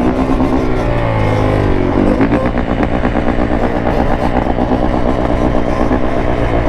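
Small off-road engine revving under throttle: the pitch falls at first, climbs again about two seconds in, then holds high and even.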